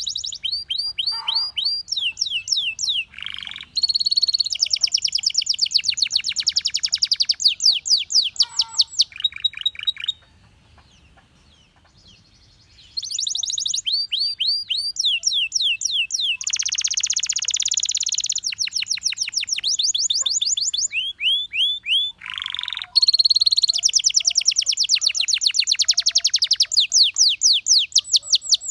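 Canary singing in long, rapid trills of quickly repeated high notes, one phrase giving way to the next every few seconds, with a pause of about three seconds near the middle.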